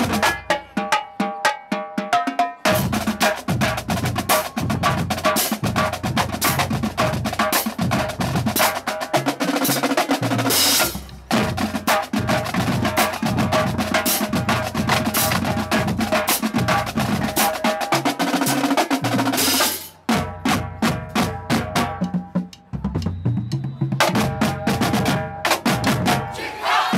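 Marching band drumline playing a fast, dense cadence of snare drum strokes and rolls over pitched marching bass drums, with the low drums dropping out briefly a few times.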